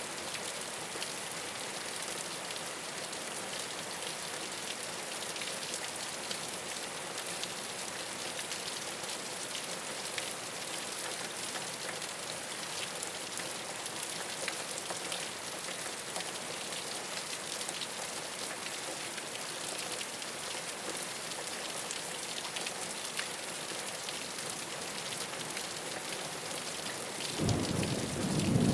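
Steady rain falling on a rooftop, an even hiss dotted with fine drop ticks. About a second before the end, a low rumble of thunder rises in.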